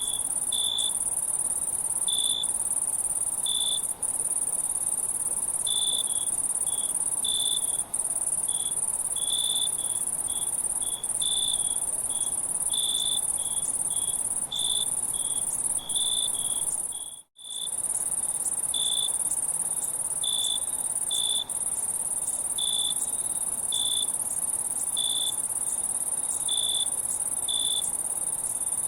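Insect chorus: a steady high-pitched drone with short chirps repeating at an uneven pace over it. The sound cuts out completely for a moment about 17 seconds in.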